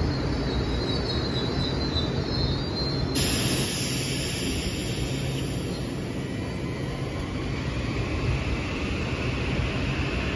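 Kawasaki M8 electric multiple-unit train running along the track: a steady rumble of wheels on rail, with a faint high wheel squeal in the first few seconds. The sound changes abruptly about three seconds in.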